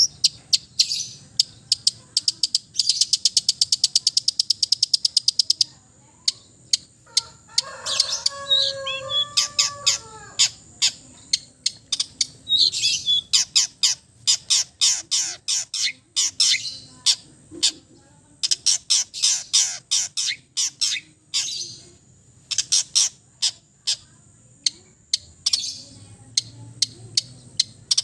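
Long-tailed shrike (cendet) singing a loud, varied song packed with mimicked calls. It gives a fast rattling run of sharp notes, then a lower whistled phrase, then long series of quick downward-sweeping chips.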